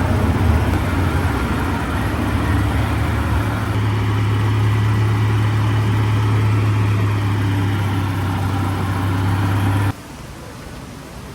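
A motor vehicle's engine running steadily with a low hum. It cuts off abruptly about ten seconds in, leaving a quieter hiss.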